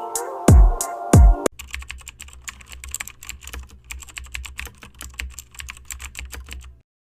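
Electronic music with deep, falling bass hits stops about a second and a half in. A fast, irregular clatter of computer-keyboard typing follows and cuts off suddenly near the end.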